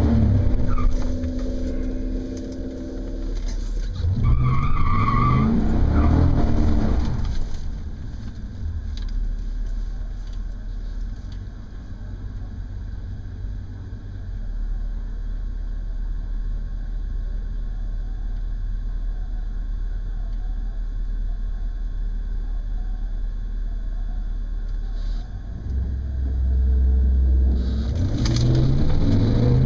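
Inside the cabin of a stock 2004 Pontiac GTO, the 5.7-litre V8 with a four-speed automatic: an engine revs up and down a few seconds in, then the V8 idles with a steady low rumble at the starting line. Near the end it launches, its revs climbing as the car accelerates hard down the drag strip.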